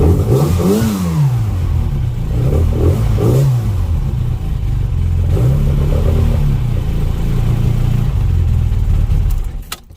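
Classic Mini 1380 A-series four-cylinder engine running after a cold start, blipped three times with the revs rising and falling, then switched off near the end, cutting out suddenly.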